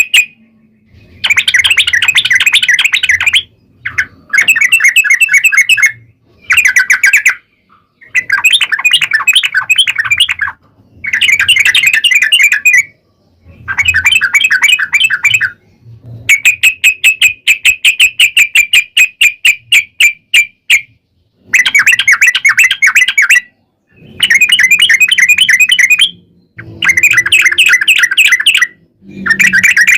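Yellow-vented bulbul song: bursts of rapid, chattering notes in bouts of one to three seconds with short pauses between, and one longer run of quick repeated notes about midway.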